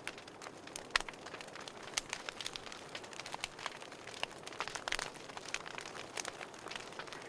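Wood fire in a fireplace crackling: a steady soft hiss with frequent sharp pops and snaps, a few louder ones about one, two and five seconds in.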